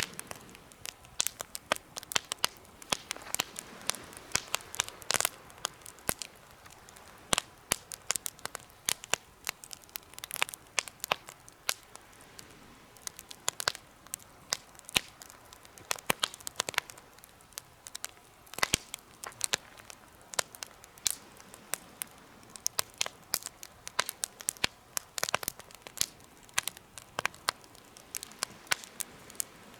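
Wood campfire burning in a homemade fire pit, crackling with frequent, irregular sharp pops and snaps over a soft, steady hiss.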